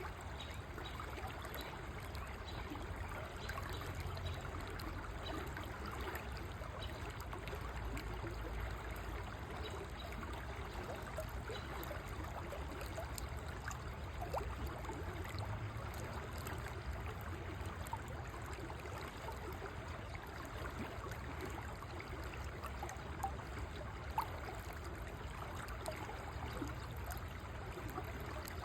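River water flowing steadily, a continuous rushing and trickling with a few short plinks of water about two-thirds of the way through.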